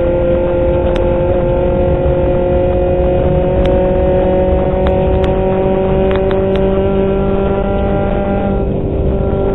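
1996 VW Golf rally car's engine heard from inside the cabin, held at high revs with its pitch climbing slowly, then dropping near the end. A scattering of sharp clicks from something striking the car.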